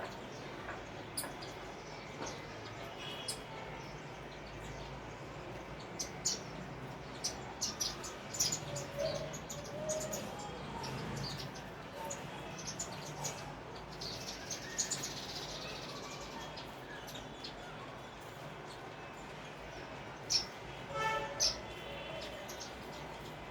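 Sparrows chirping: many short, sharp, high chirps in irregular flurries, busiest in the middle and again briefly near the end, over a steady background hiss.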